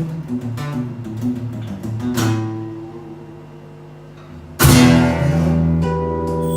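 Acoustic guitar music: picked notes, a strummed chord about two seconds in that fades away, then a sudden loud strummed chord that rings on.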